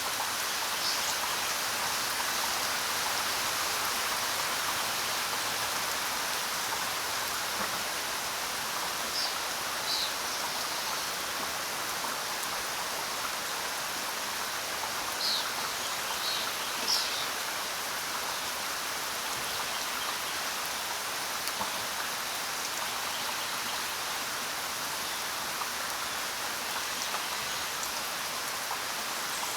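Steady rain falling on the ground, an even hiss, with a few brief sharper ticks standing out now and then.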